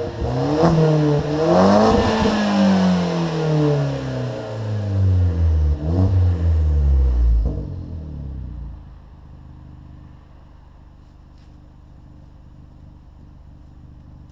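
2013 Opel Corsa OPC's 1.6-litre turbocharged four-cylinder, breathing through an aftermarket exhaust with a 3-inch downpipe, 2.5-inch resonator and Duramas silencer, being revved. The revs climb, then fall slowly with a short blip about six seconds in. About eight seconds in the engine settles to a quieter steady idle.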